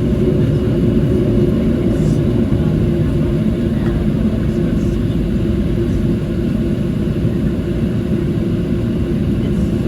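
Steady low cabin rumble of a Boeing 737-700 taxiing after landing, its CFM56 engines at idle, with an even hum under it.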